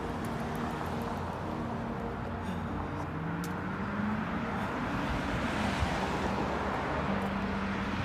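Road traffic noise: a steady hiss of passing vehicles, with an engine whose pitch rises a couple of seconds in and later holds steady.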